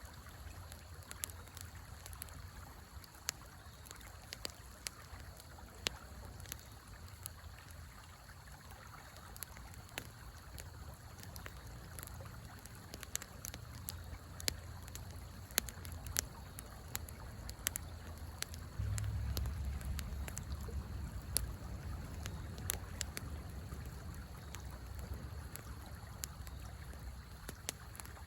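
Wood fire crackling, with sharp irregular pops, over the steady rush of a river. A low rumble swells about two-thirds of the way through.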